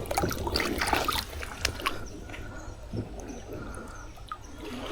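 Water splashing and trickling around a canoe on a creek, with irregular small splashes and knocks in the first couple of seconds that then settle.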